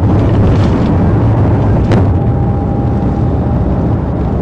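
Loud, steady low rumble of a vehicle driving at speed, with one sharp click about two seconds in.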